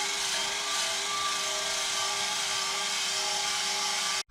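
Electric drill spinning a wire brush against a welded steel exhaust pipe, scrubbing it clean: a steady harsh hiss over the drill's motor whine, cutting off suddenly near the end.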